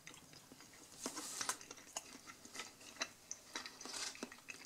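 Faint, irregular wet mouth clicks of someone chewing a bite of a cheese-filled meatball, close to the microphone.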